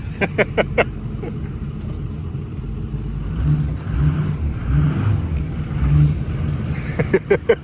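Ford 6.0 Power Stroke V8 turbodiesel in a 1979 F-250 running under load while the truck is driven through snow, its note surging a few times in the middle. A few short sharp clicks come near the start and again near the end.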